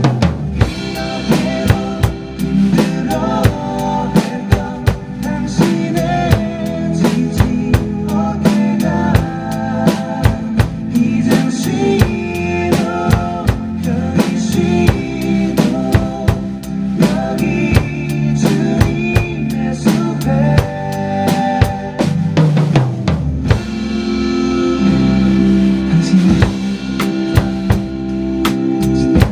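Acoustic drum kit played along to a recorded backing track, with a steady beat on kick, snare and cymbals over pitched accompaniment.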